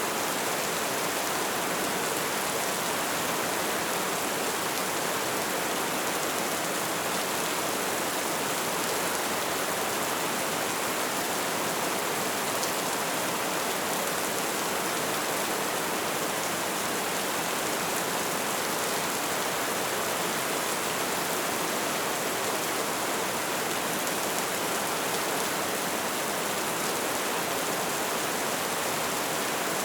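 Steady light rain falling, an even hiss with no changes.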